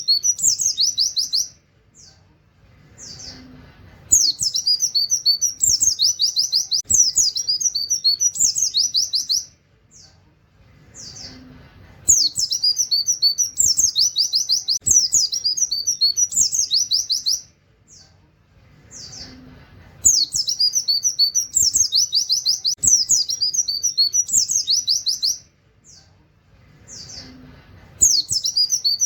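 Pleci (white-eye) singing in a rapid, very high trilled burst of about five seconds with canary-like phrases, then a few separate 'wit' calls. The cycle repeats about every eight seconds.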